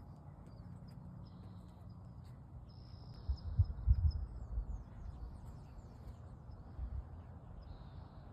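Songbirds chirping and trilling in short high phrases, over a low background rumble. A few low thumps come about three to four seconds in.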